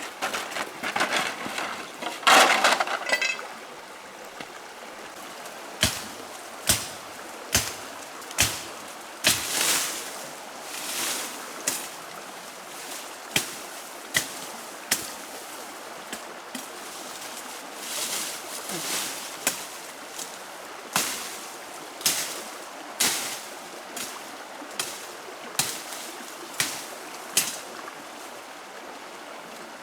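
Water splashing and sloshing in a series of separate splashes and knocks, roughly one a second, over a steady trickle of flowing water.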